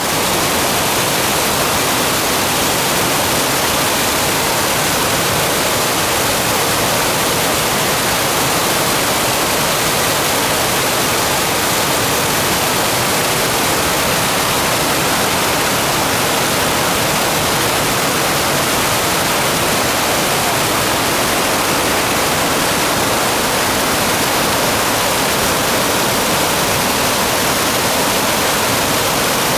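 Waterfall's falling water rushing, a loud, steady noise spread evenly from deep to very high pitches.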